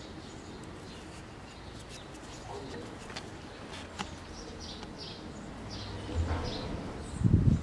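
Small birds chirping now and then over steady outdoor background noise, with a few faint clicks. A short, loud low rumble comes near the end.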